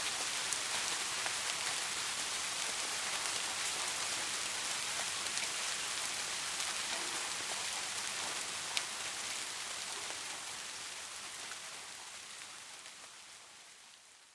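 Steady rain falling, an even hiss with scattered drop ticks and one sharper drop about two thirds of the way in; it fades out slowly over the last few seconds.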